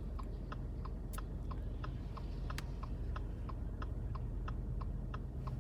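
Car turn-signal indicator ticking steadily, about three clicks a second, over the low steady rumble of the car's cabin while driving.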